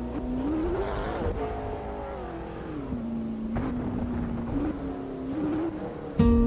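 A car engine's drone rising in pitch, falling back and then holding steady, like a car accelerating and easing off. An acoustic guitar strum starts the next song near the end.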